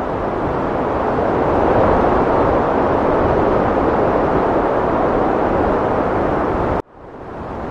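Heavy wind blowing in a steady rush that swells a little. Near the end it cuts out abruptly for a moment and then fades back in.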